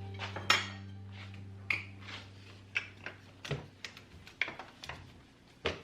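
Dishes and cutlery clinking and knocking as they are handled, a dozen or so light, separate clacks, while a low held tone dies away over the first half.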